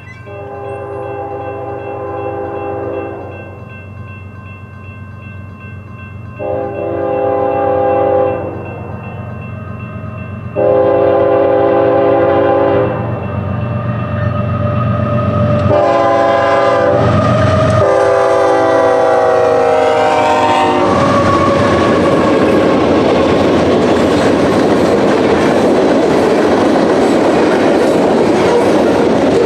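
Multi-chime air horn of an approaching Union Pacific freight locomotive sounding four blasts, each louder than the last; the fourth is long and drops in pitch as the lead locomotive passes. The train then rolls by close up, wheels rumbling and clattering over the rail joints.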